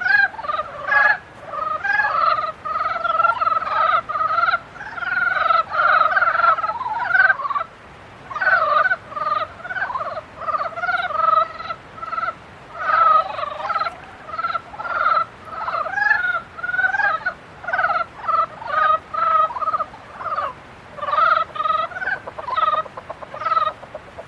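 A chorus of frogs giving breeding-season mating calls: many short, rapidly pulsed croaks that overlap and repeat, with a brief lull about a third of the way in.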